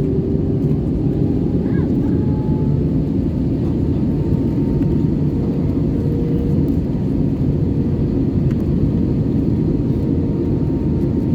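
Steady low roar of an Airbus A320-214 heard from inside the passenger cabin, with a few faint steady tones above it.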